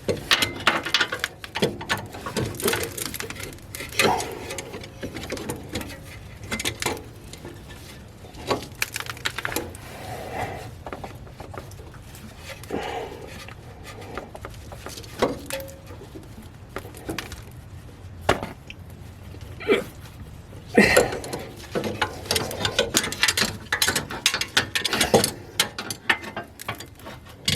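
Irregular clicks, knocks and scrapes of hands and a tool fumbling at a car's oil filter in a cramped space, with one sharper knock about two-thirds of the way through.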